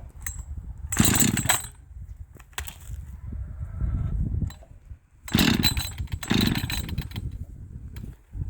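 Husqvarna 555 two-stroke chainsaw being pull-started: three hard yanks on the starter cord, about 1 s in and then two close together past the middle, the engine turning over without catching. The chain brake is engaged, which the owner later blames for it not starting.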